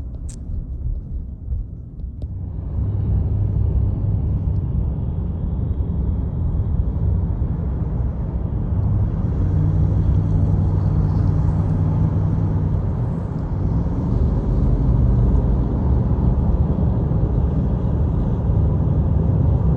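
Low road and engine rumble inside a moving car's cabin, swelling about two and a half seconds in and then holding steady.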